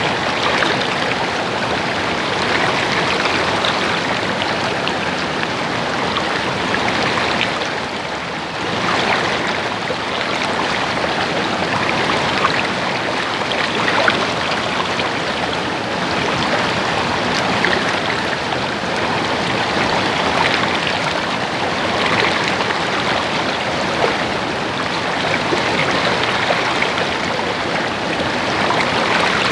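Water gurgling and splashing steadily over rocks in a stream, a continuous rushing hiss with small splashes throughout.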